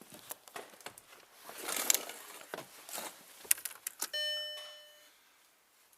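Clicking and rattling of keys being handled, then about four seconds in a single ding of the VW Polo's dashboard warning chime that fades out within a second, as the ignition is switched on just before cranking.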